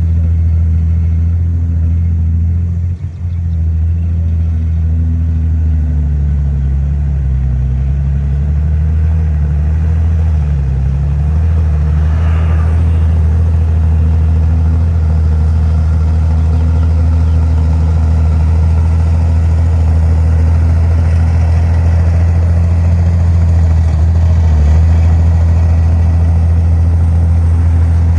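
Komatsu D51PX bulldozer's diesel engine running steadily at working load, its pitch sagging and recovering a few times about a third of the way in.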